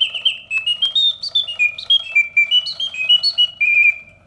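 1968 Reuge double singing bird cage playing its mechanical birdsong on the continuous setting: a bellows-blown whistle chirping a quick run of short notes that step up and down in pitch, ending on a held note. Faint clicking from the freshly serviced clockwork mechanism, which runs smoothly and quietly.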